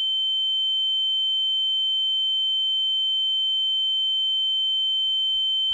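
A steady, high-pitched electronic ringing tone, like ringing in the ears, used as a film sound effect. It holds one pitch with fainter tones above and below, and cuts off suddenly at the end as speech begins.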